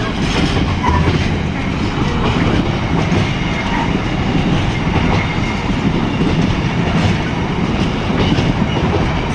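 A long diesel-hauled freight train rolling through the station, a steady loud rumble of its wagons' wheels on the rails.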